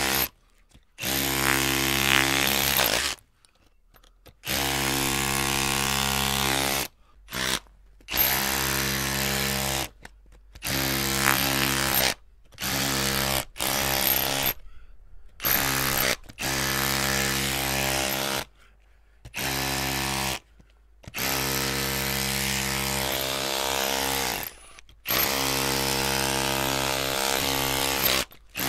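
Electric drill motor running in a dozen or so separate bursts as the trigger is squeezed and released, each run a steady-pitched whine over a low hum. The runs last from under a second to about three seconds, with short silent gaps between them.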